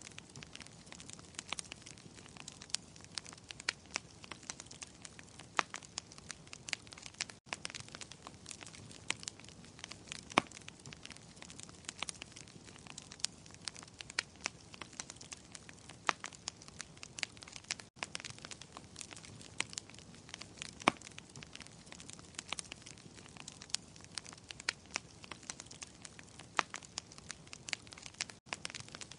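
Wood fire burning in a fireplace, crackling and popping irregularly over a soft steady hiss of flame.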